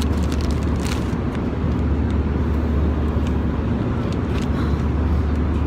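Steady low droning cabin noise of a moving vehicle, with a few faint small clicks or rustles.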